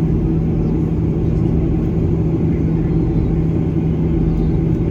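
Steady low drone inside the cabin of a Boeing 737-800 airliner, with a constant hum running through it.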